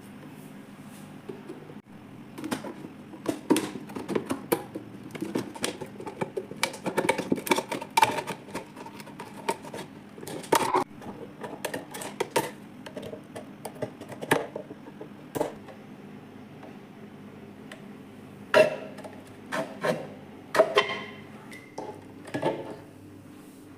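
Kitchen containers and dishes being handled and set down: irregular clicks, knocks and clatter, busy through the first half and again near the end, over a steady low hum.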